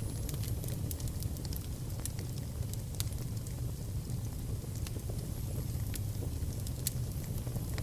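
Fire burning in a fireplace: a steady low rumble of flames with scattered sharp crackles and pops, and a faint high-pitched whistle now and then.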